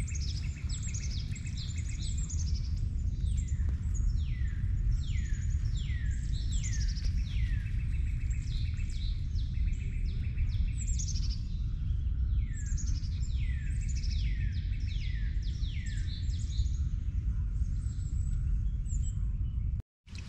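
Songbirds calling: many quick, high, down-slurred whistled notes repeated in runs, over a steady low rumble. The sound cuts off suddenly near the end.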